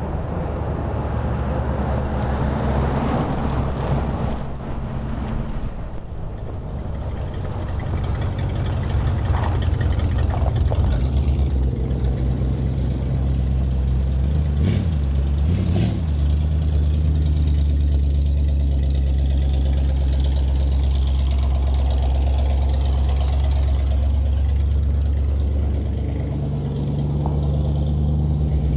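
The 1970 Cadillac Coupe de Ville's 472 V8 running steadily as the car is driven, a low engine drone. Its pitch briefly dips and climbs back about halfway through.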